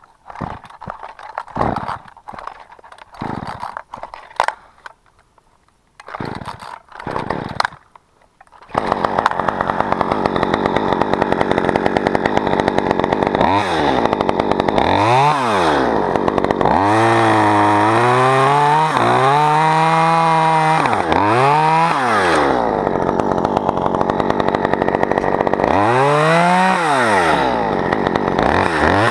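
Chainsaw in tree-removal work: short stop-start bursts for the first eight seconds or so, then running steadily at high revs. Its engine pitch dips and recovers several times as the chain loads up in the wood.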